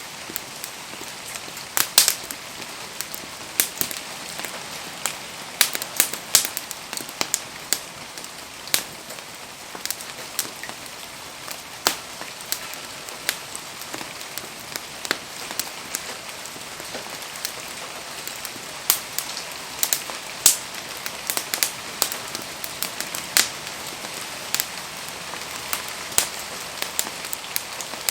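Wood fire crackling with frequent sharp, irregular pops over a steady hiss of falling rain.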